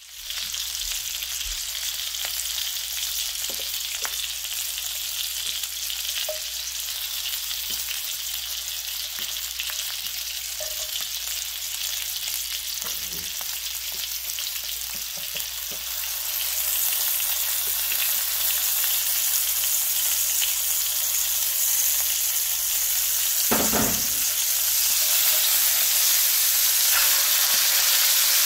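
Pork sausages and bacon frying in fat in a cast-iron skillet: a steady, crackling sizzle that gets louder about halfway through. Scattered light clicks sound throughout, and there is one louder knock near the end.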